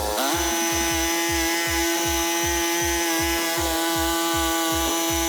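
Small petrol engine of a power saw revving up and then holding at high speed, like a chainsaw cutting wood. Under it run low thumps about three times a second.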